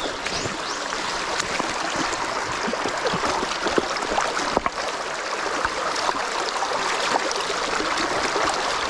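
Mountain stream rushing steadily over rocks, with many small splashes and stony clicks scattered through it, one sharper knock near the middle, as a hand net is worked through the shallows.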